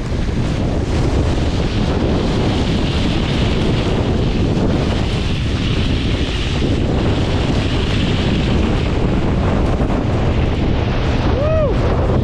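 Strong storm wind blasting the microphone, a steady rush with hissing gusts in the middle. Near the end there is a short squeak that rises and falls.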